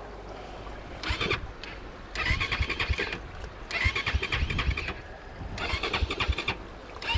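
Dirt bike engine being cranked over in about five short bursts, each about a second long, without catching. The bike has just been swamped in a river crossing, and the riders suspect water got into the air filter.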